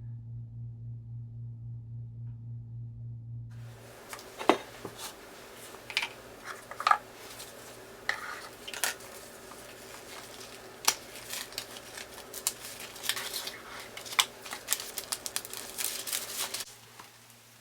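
Irregular clinking and clattering of small hard objects, with some rustling, starting about four seconds in and cutting off shortly before the end. Before it, a steady low hum with a slow pulse.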